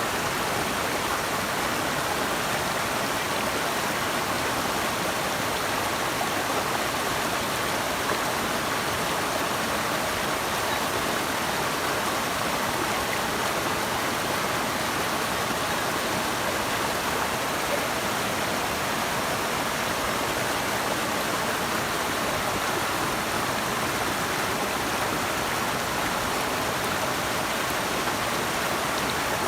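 Steady rush of running water, even and unbroken, strongest in the middle and upper range.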